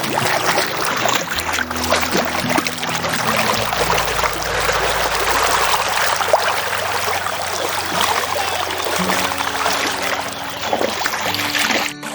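River water rushing and splashing in a steady, noisy wash, with faint low notes of background music underneath.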